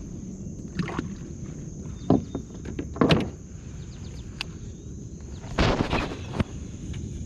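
A few knocks and splashes in and around a kayak, the loudest and longest about three-quarters of the way through. Under them runs a steady high insect drone.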